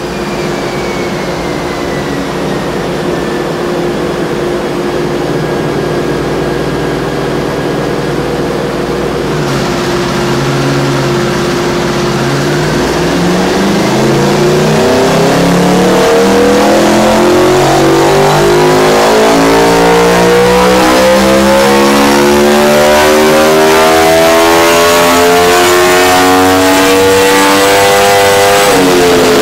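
2010 Aprilia RSV4 Factory's 65-degree V4 running on a chassis dyno through a Leo Vince slip-on exhaust. It holds a steady engine speed for about twelve seconds, then pulls in one long, rising, louder climb up through the rev range, and is backed off right at the end.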